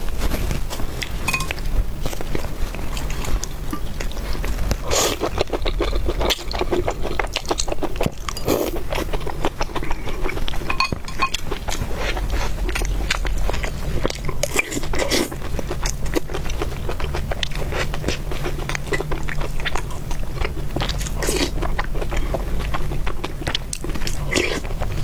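A person chewing and biting food, a dense run of irregular short clicks and smacks over a steady low hum.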